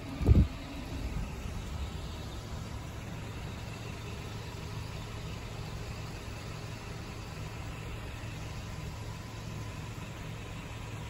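A vehicle engine idling with a steady low hum. About a third of a second in there is one brief, loud low thump.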